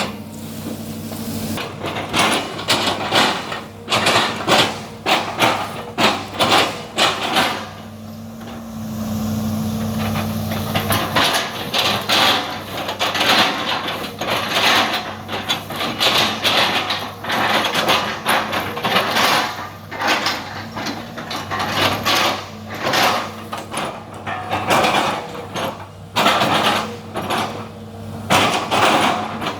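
Excavator's diesel engine running steadily, under frequent sharp knocks and cracks as the machine chops oil palm trunks. About eight seconds in the knocks pause for a few seconds while the engine note swells, then they resume.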